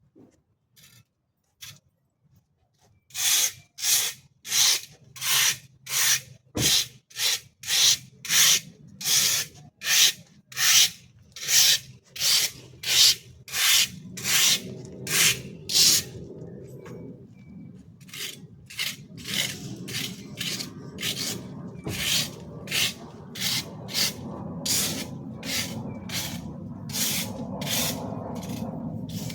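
Rhythmic rasping strokes of a hand tool worked back and forth on a hard material, about one and a half strokes a second, starting about three seconds in. After about sixteen seconds the strokes grow fainter and a low steady rumble rises underneath.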